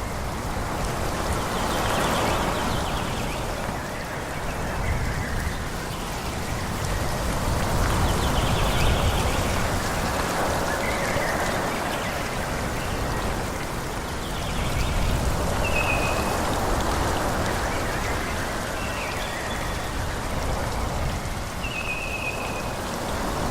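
Wind gusting through forest trees: a continuous rushing of leaves with a low rumble, swelling and easing every few seconds. A couple of brief high chirps come through about two-thirds of the way in and near the end.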